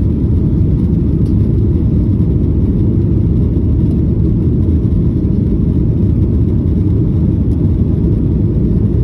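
Steady low rumble of a jet airliner's engines and airflow, heard from inside the passenger cabin during the climb after take-off.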